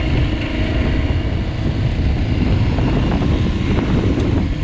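Aprilia Tuareg 660's parallel-twin engine running while the motorcycle rides along, with heavy wind buffeting the microphone.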